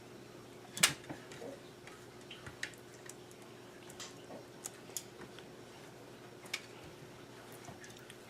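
Scattered light clicks and taps of chicken pieces and a utensil being set on a serving plate, with one louder knock about a second in, over a faint steady hum.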